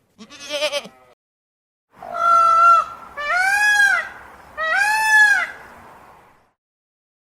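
Farm animal bleating: a short quavering bleat, then after a pause three longer, louder calls in a row.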